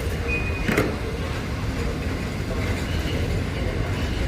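Polish EU07 electric locomotive and its train of carriages moving slowly in a push move, a steady low rumble throughout. A short high beep sounds near the start and a single knock comes just under a second in.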